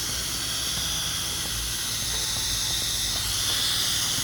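Pressure washer wand spraying soap onto a house in a steady hiss, downstreaming through a 1.8 chemical injector, over a low steady hum.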